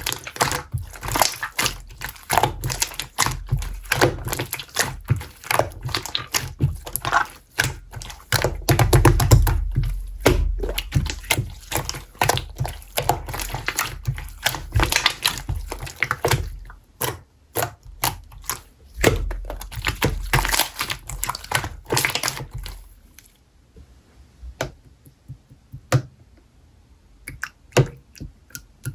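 Slime being squeezed and worked by hand, giving rapid, crackly clicking and popping for most of the time; about three-quarters of the way through it drops to a few scattered clicks.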